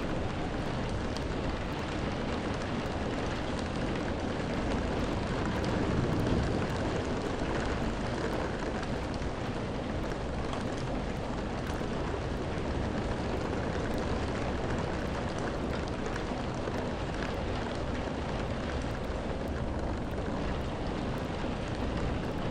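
Steady rain falling, a dense even hiss with a low rumble and faint drop ticks, swelling slightly about six seconds in.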